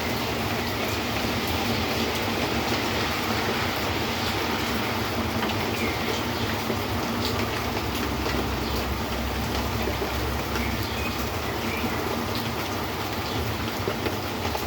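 Steady rain falling: an even hiss with scattered drops ticking, over a low rumble.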